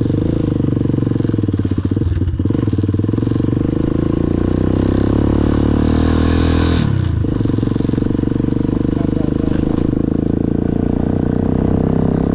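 Motorcycle engine under way, rising in pitch for several seconds as it accelerates, then dropping sharply about seven seconds in before running steadily again.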